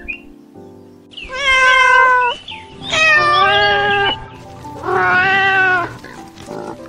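Domestic cat meowing three times, each a long drawn-out meow of about a second, over background music.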